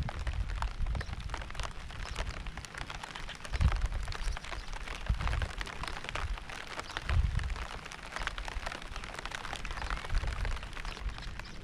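Rain falling in many close, crisp drops, with a low rumble swelling up a few times, most strongly about three and a half and seven seconds in.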